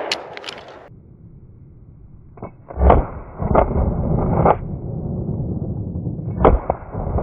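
Shotguns firing at flushed pheasants in a scattered volley: several sharp shots, near and farther off, the loudest about three seconds in and two more in quick succession near the end.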